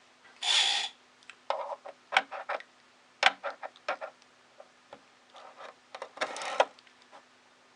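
Small 3D printer parts and a metal rod being handled on a work surface: a scatter of clicks and taps, with a short rubbing scrape about half a second in and another about six seconds in.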